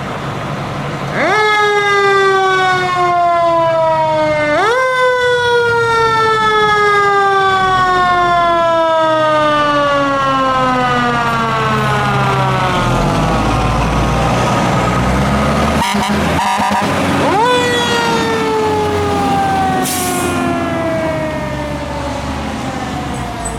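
Fire truck's mechanical siren, winding up quickly three times and coasting slowly down in pitch after each, over the low rumble of the truck.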